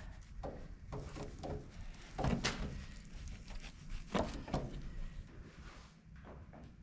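Scattered light knocks and scrapes, several in a few seconds, from a wooden honey frame and an electric hot uncapping knife being handled while wax cappings are cut off the comb.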